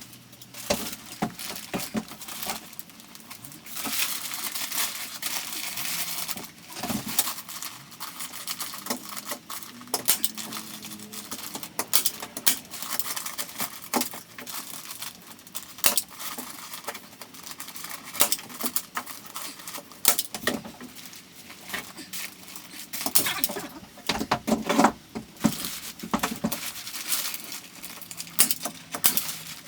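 Insulation being handled and fitted into a ceiling: rustling, crinkling and tearing, with many irregular sharp clicks and taps.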